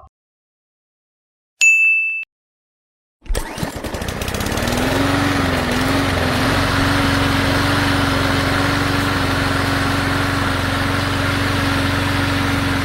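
A short high beep, then about three seconds in an engine starts and runs steadily at one even pitch until near the end.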